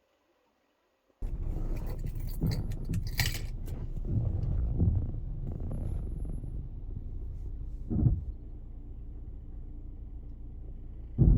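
Low rumble of a moving vehicle, with rattling and jangling clicks over the first few seconds, cutting in suddenly about a second in after near silence; one brief louder bump comes later.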